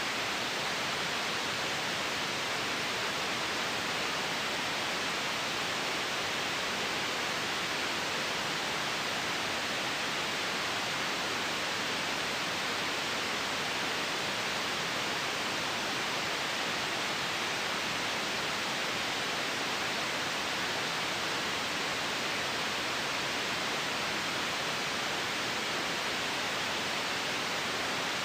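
Steady white noise: an even, unchanging hiss, strongest in the upper middle range.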